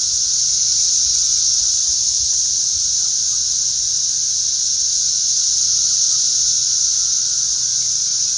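Chorus of many cicadas singing together: a loud, steady, high-pitched drone with no breaks.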